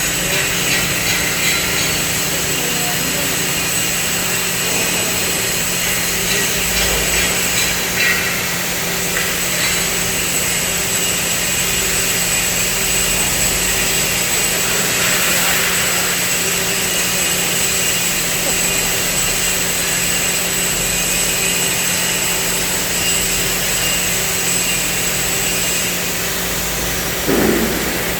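CNC cutting machine running steadily: a continuous loud hiss over a constant hum, with a short knock near the end.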